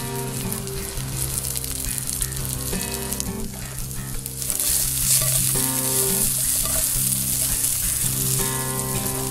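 Sliced sausage sizzling and frying in a skillet over a small wood fire, the sizzle swelling louder about four and a half seconds in. Steady pitched notes sound low beneath it.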